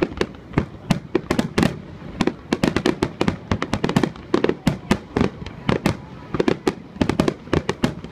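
A dense finale barrage of aerial firework shells bursting: many sharp bangs a second in quick clusters, with short lulls about two seconds in and again about six seconds in.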